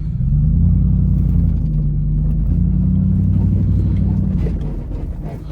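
Third-generation Dodge Ram's Hemi V8 pulling hard under throttle, heard from inside the cab, its pitch stepping up a little twice before it eases off about four and a half seconds in.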